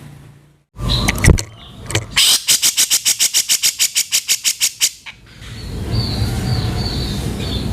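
Grey-cheeked bulbul (cucak jenggot) giving its harsh 'kasaran' call: a few sharp notes, then a fast rattling series of about nine strokes a second lasting nearly three seconds. Faint high notes follow over a noisy background.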